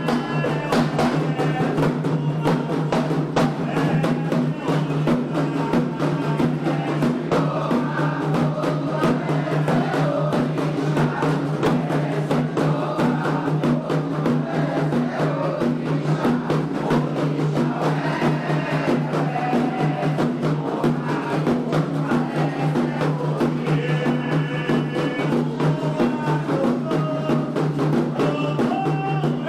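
Candomblé ritual music: atabaque hand drums playing a fast, steady rhythm, with voices singing over them.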